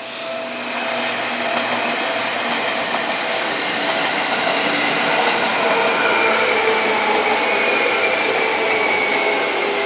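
Yellow Seibu electric commuter train running past on the adjacent track, its wheels rumbling over the rails. It gets louder about a second in, and a whine slowly falls in pitch as the train slows.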